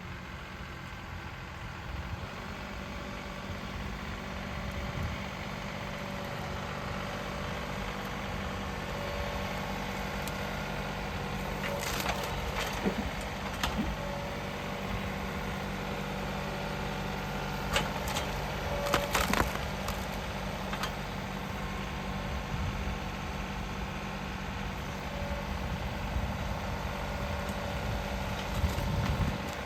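Compact tractor engine running steadily while driving a PTO stump grinder that chews into a wood stump, with several sharp cracks of splintering wood in the middle and one more near the end.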